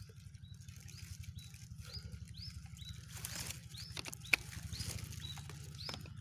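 Small birds chirping, short rising-and-falling chirps repeated about twice a second over a steady low rumble, with one sharp click a little over four seconds in.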